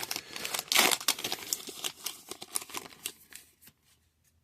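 Foil wrapper of a trading card pack being torn open and crinkled, loudest about a second in and dying away well before the end.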